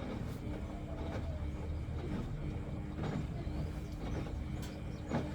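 Samsung ecobubble washing machine running, with a steady motor hum and low rumble and a handful of short, irregular knocks from the drum.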